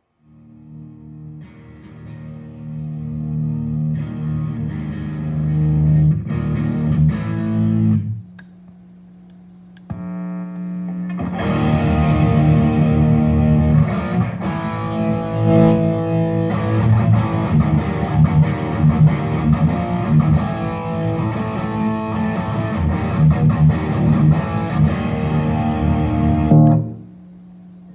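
Electric guitar with P90 pickups played through a Tech21 SansAmp GT2 pedal into a Laney amp, giving a distorted, overdriven tone. The playing breaks off for about three seconds around eight seconds in, then resumes and stops shortly before the end.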